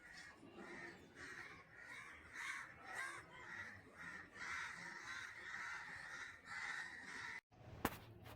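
Crows cawing, a string of harsh repeated calls, followed near the end by a single sharp click.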